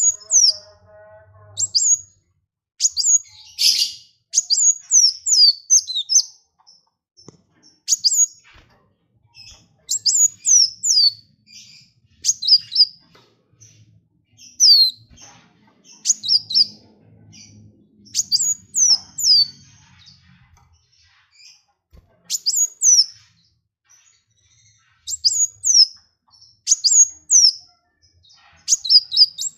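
A small songbird singing repeated sharp, high-pitched chirps that slur downward, delivered in quick clusters of three to six notes with short pauses between them.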